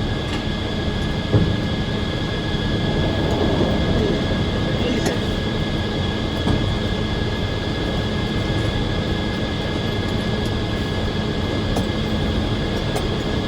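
Circular sawmill running: steady machinery noise with a steady high-pitched whine, and a single knock about a second and a half in.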